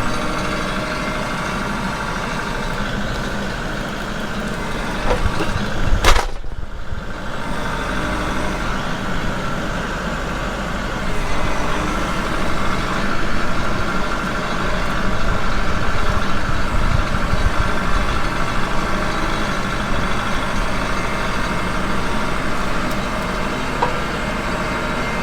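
Wood-Mizer sawmill's engine running steadily, with one sharp knock about six seconds in.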